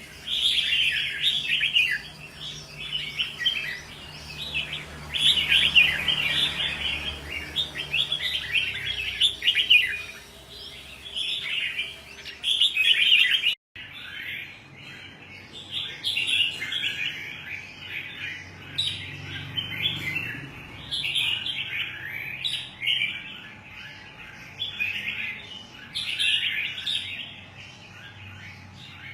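Red-whiskered bulbul singing, a near-continuous run of quick chirping phrases, broken once by a very short gap about halfway through.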